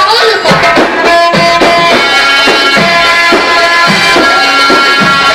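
Live Egyptian sha'bi wedding music, played loud: a tabla-driven dance beat under long held melody notes.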